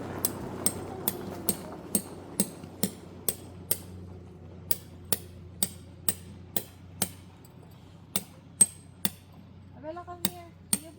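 Repeated sharp hammer strikes, about two to three a second, in runs with short pauses between. A brief voice is heard near the end.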